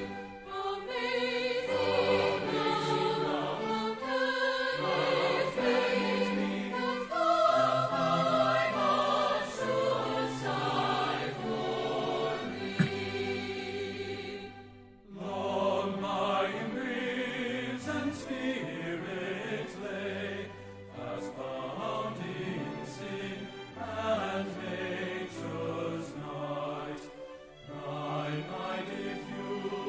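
Several voices singing a traditional hymn together, with a brief pause between lines about halfway through.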